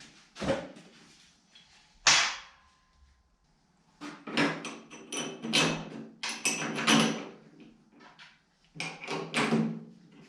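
Knocks and clatter of a bare sheet-steel car door being handled and worked on: a sharp knock about two seconds in, then two longer runs of clattering metal.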